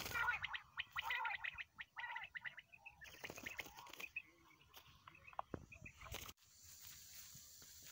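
Small birds chirping: a dense run of rapid chirps for the first few seconds, then scattered single chirps, ending abruptly about six seconds in, followed by a faint outdoor hiss.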